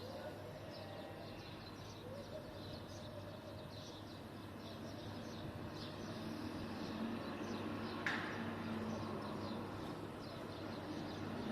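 Sparrows chirping in short repeated notes over a steady low street hum, with one louder sharp sound about eight seconds in.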